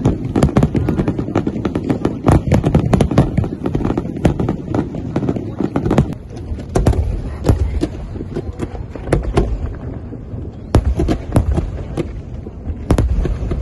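Aerial fireworks going off: a dense, rapid run of overlapping bangs and crackles for the first six seconds, then sparser separate booms.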